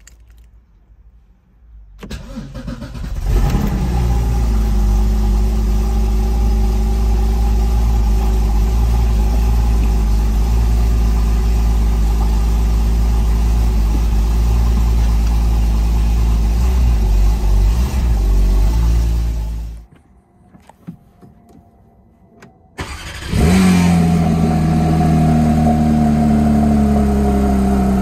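Porsche 981 Cayman GT4's 3.8-litre flat-six cold-starting: a short crank about two seconds in, then it catches and runs at a steady high cold idle until it stops abruptly. A few seconds later a Porsche 992 GT3's 4.0-litre flat-six fires up suddenly and flares to a high cold idle that slowly settles lower in pitch. Both are heard from inside the cabin.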